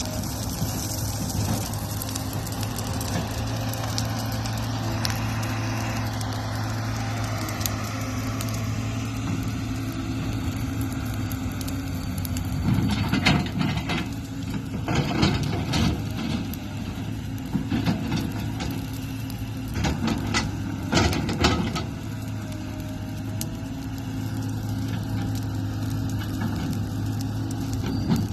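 Brush bonfire burning, the wood crackling, with a run of sharp pops in the middle, over a steady low hum.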